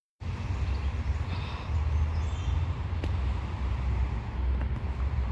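Steady low rumble of a vehicle engine, cutting in abruptly just after the start, with a few faint high chirps in the first two seconds.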